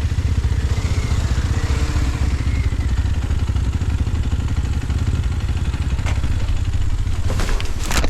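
Enduro motorcycle engine running at low speed, with a few clattering knocks near the end.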